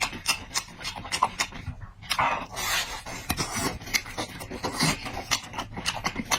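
Close-up eating sounds: chewing and lip smacking, with many quick wet clicks and a few longer munching passages.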